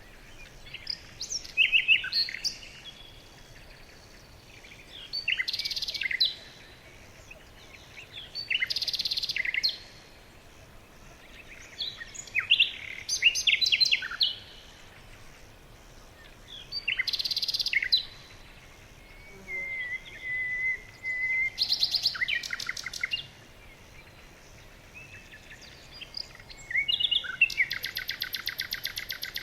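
Songbirds singing: short, varied song phrases every few seconds, a long even whistle a little past the middle, and a fast trill of rapidly repeated notes near the end.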